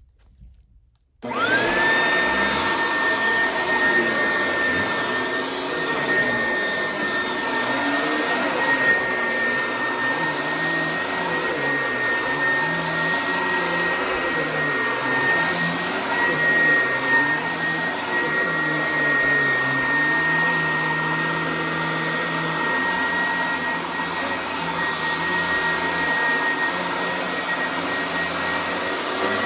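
Upright vacuum cleaner switched on about a second in, its motor spinning up fast to a steady high whine, then running continuously with a lower hum that wavers in pitch.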